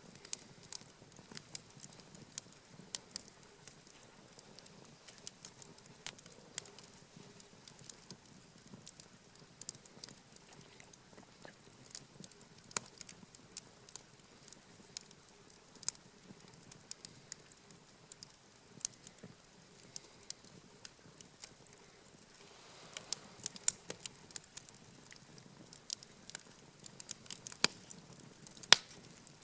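Wood campfire crackling, with irregular sharp pops over a quiet background, growing denser and louder near the end.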